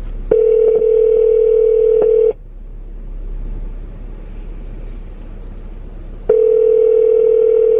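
Telephone ringback tone through a phone's speaker: two steady rings of about two seconds each, about four seconds apart, as the call goes unanswered.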